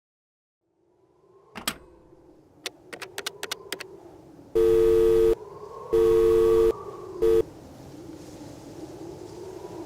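A few clicks, then a telephone tone sounding twice for under a second each and cutting off after a brief third beep, over a faint steady background.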